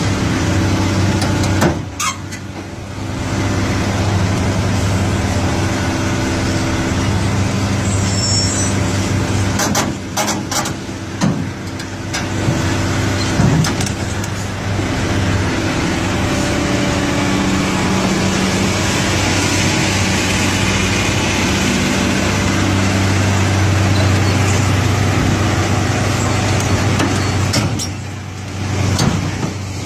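Heavy diesel engine of a Cat excavator running and working under load as it climbs onto a trailer, swelling and easing, with several short metallic clanks along the way.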